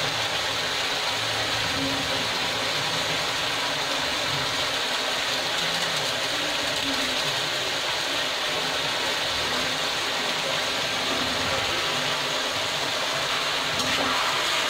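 Onion, tomato and potato frying in oil in a steel kadhai: a steady sizzle. Near the end a metal ladle starts stirring through the pan.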